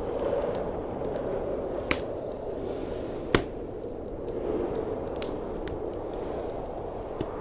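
Wood fire crackling, with four sharp pops, the loudest about halfway through, over the steady low roar of blizzard wind.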